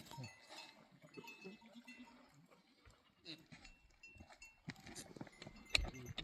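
Faint clinking of bells on a flock of goats and sheep, with scattered small knocks and one sharper knock near the end.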